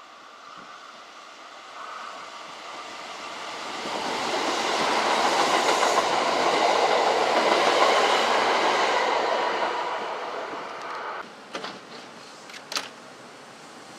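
Kintetsu electric train passing through the station, the sound swelling over a few seconds to a peak and dying away again after about ten seconds. A few sharp clicks follow near the end.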